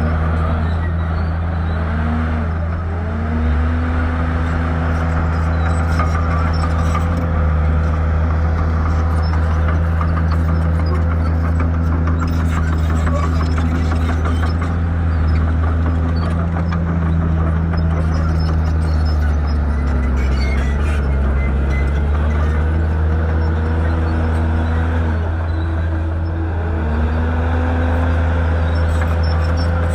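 Shantui bulldozer's diesel engine running steadily under work, its pitch rising about two to three seconds in, dropping around twenty seconds, and rising again near the end.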